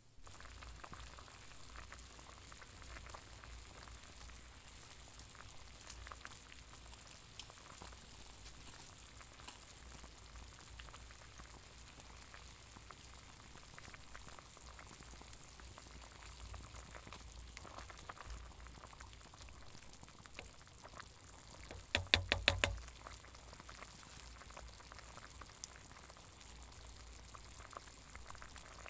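Steady crackling and sizzling from cooking over a campfire, with a quick run of sharp clicks about two-thirds of the way through.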